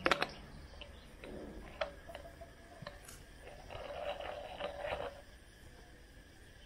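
Hands working on a compressor and its parts: a few sharp clicks and knocks, then a scraping or rustling stretch of about a second and a half near the middle.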